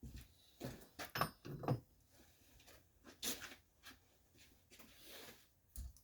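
Metal engine parts being handled on a workbench during reassembly of a small Briggs & Stratton engine: a handful of separate knocks and clinks, with a brief metallic ring about a second in.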